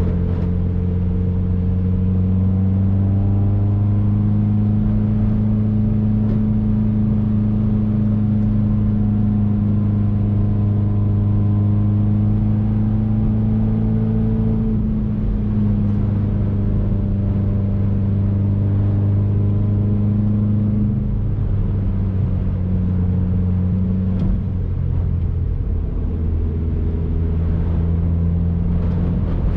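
2019 Subaru WRX's turbocharged flat-four engine running steadily while driving, its note rising slightly early on and then stepping down in pitch around halfway and again later, as with throttle and gear changes.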